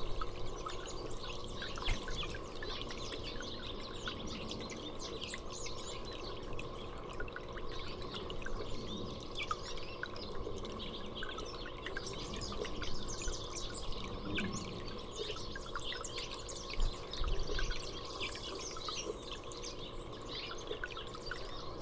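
Small songbirds chirping and calling repeatedly in short, scattered notes over a steady background hiss.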